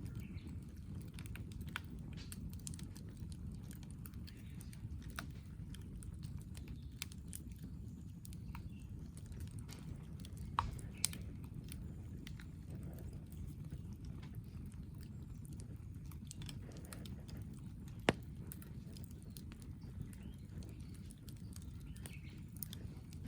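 Wood campfire crackling, with scattered small pops over a steady low rush and a few louder snaps: two close together about halfway through and one more later.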